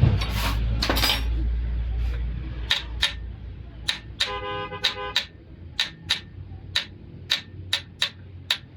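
A low vehicle-like rumble fades out in the first few seconds. Then come sharp metallic clicks, about two a second, with a brief horn-like tone about four seconds in.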